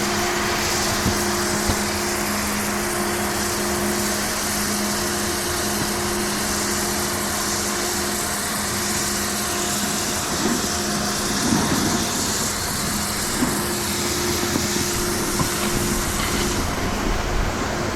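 Snowboard sliding downhill with wind rushing over the microphone, a steady rushing noise. A constant low mechanical hum runs underneath.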